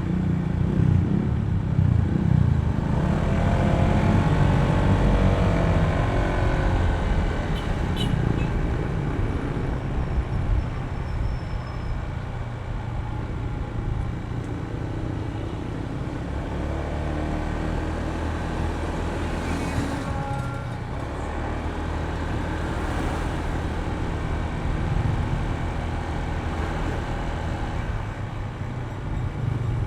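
Honda ADV160 scooter's single-cylinder engine running while riding in city traffic, its pitch shifting with speed, with the noise of surrounding road traffic. The sound is loudest in the first few seconds.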